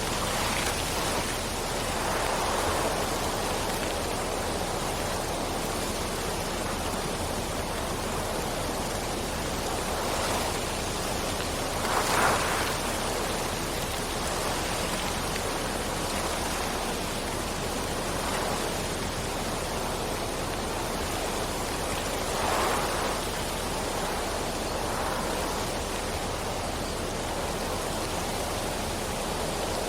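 Steady rain falling, an even hiss with a few brief louder swells every several seconds, the strongest about twelve seconds in.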